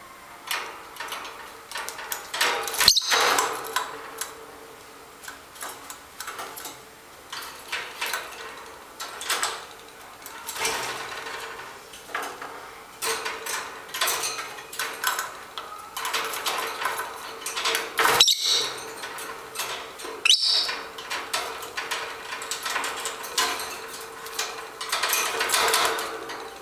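Pet lovebirds preening and moving close to the microphone: irregular scratchy rustling, beak clicks and small squeaks, with a faint steady hum underneath.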